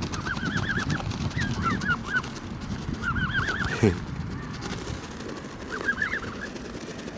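Feeding geese calling in short groups of quick, high rising-and-falling notes, several times, over low scuffling from the birds pecking at the feed.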